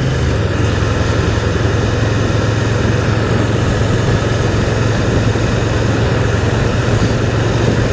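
Can-Am Spyder three-wheeled motorcycle's engine running at a steady low note while riding, under a constant rush of wind noise.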